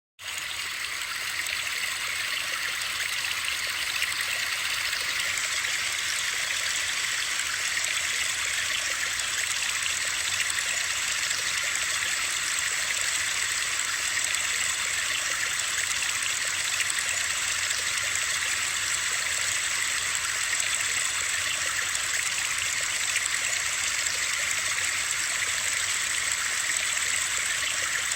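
Steady hiss of rushing water, even and unbroken with no separate drops or splashes, used as a white-noise sleep track. It starts abruptly out of silence at the very beginning.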